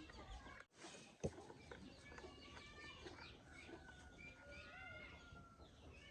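Faint chickens calling: many short clucks and chirps, with one long drawn-out call about halfway through. A single sharp click about a second in.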